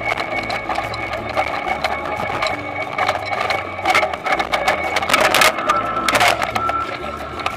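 Toyonoki potato harvesting machine running, a steady rhythmic mechanical clatter with a whine and sharp knocks, loudest around four to six seconds in.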